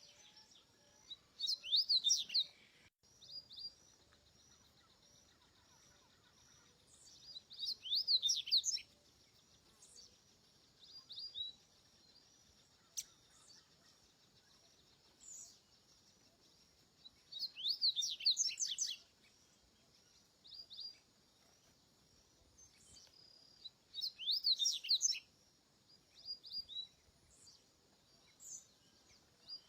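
Double-collared seedeater (coleiro) singing: four high-pitched bursts of rapid up-and-down notes, spaced about six to ten seconds apart, with short single notes in between.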